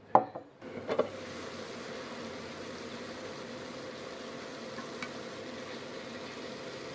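Eggplant pieces sizzling in a nonstick frying pan with a steady hiss while being stirred with a slotted spatula. The sizzle starts abruptly just over half a second in, after a couple of sharp knocks.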